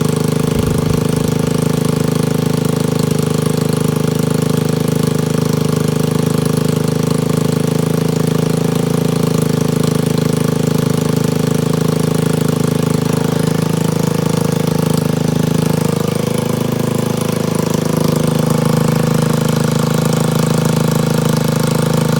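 Small 50cc two-stroke scooter engine idling steadily just after a cold start, warming up, its pitch wavering slightly about two-thirds of the way through.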